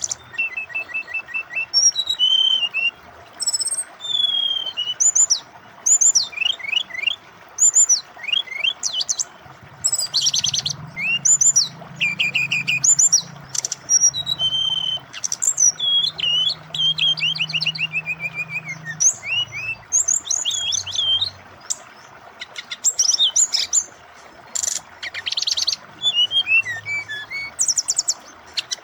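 Brown-chested jungle flycatcher singing a varied song of quick sweeping whistles, chirps and trills in rapid succession, over a steady hiss of running water.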